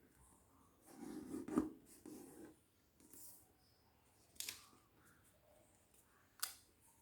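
Sheet of origami paper being handled and creased: a faint rustle with a sharp snap in the middle, then two short crisp clicks a couple of seconds apart.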